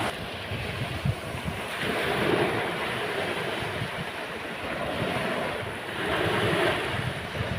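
Sea waves washing onto a beach, swelling twice about four seconds apart, with wind buffeting the microphone.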